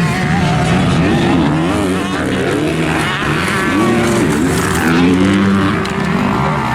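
Single-cylinder four-stroke engine of a 2022 Honda CRF250R motocross bike racing, its pitch climbing and dropping back several times as the throttle is opened and closed.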